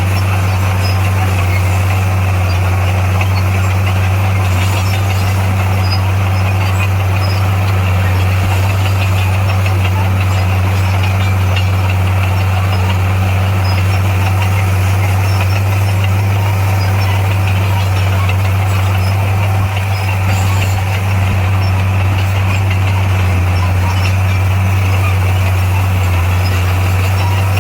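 Heavy diesel engine of earth-moving machinery running steadily with a deep, even hum.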